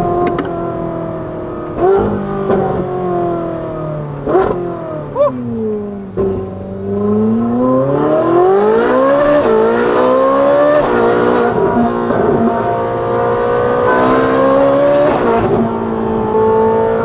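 Ferrari 458's flat-plane V8 through a titanium valved exhaust with free-flow front pipes, valves closed, heard from inside the cabin with the top up and rear window down. The revs fall for the first six seconds, with brief blips on downshifts about four and five seconds in. Then the engine pulls hard to high revs and stays up there.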